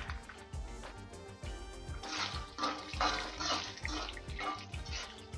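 Green chillies and ginger sizzling in hot oil in a steel kadhai, the hiss surging in patches from about two seconds in, over background music with a steady beat.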